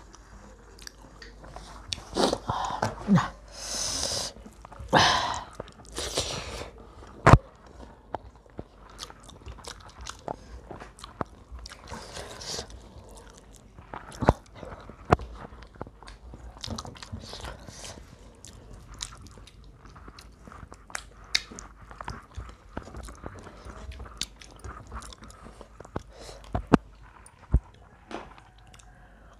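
Close-up eating sounds: chewing and crunching of crispy fried chicken, with frequent sharp mouth clicks and smacks. A few louder, noisier bursts come in the first half.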